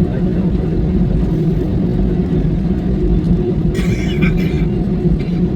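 Steady low rumble of a passenger airliner's engines and cabin noise, heard from inside the cabin.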